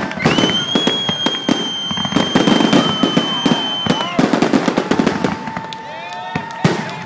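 Fireworks finale: a dense run of rapid bangs and crackles, with a long steady high-pitched whistle over the first half and a lower whistle near the end.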